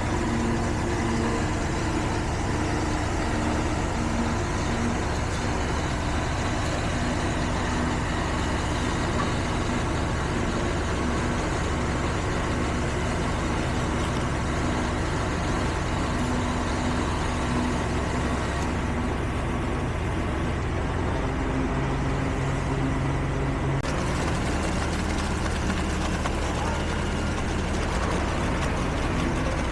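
Heavy diesel construction machinery running steadily, with a deep engine drone. The sound changes abruptly about four-fifths of the way through.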